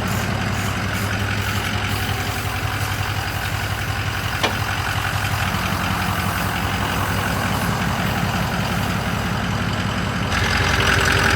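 Diesel pickup truck engine idling steadily, with a single sharp click about halfway through. Near the end the sound gets a little louder and a higher whine joins it.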